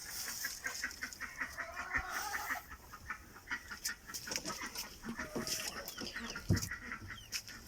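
Domestic chickens clucking, with a few short drawn-out calls among the clucks.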